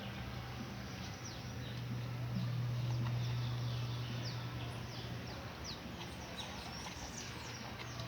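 Birds chirping with many short, quick falling calls over a steady low hum.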